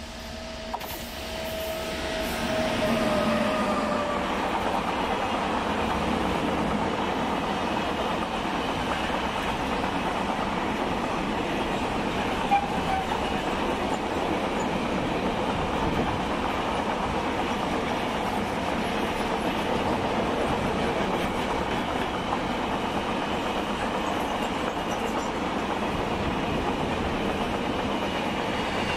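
Indian Railways WAG-9HC electric locomotive passing at speed at the head of a double-stack container train. A tone from the locomotive drops slightly in pitch as it goes by in the first few seconds. Then the long rake of loaded container wagons rolls past with steady wheel-on-rail noise.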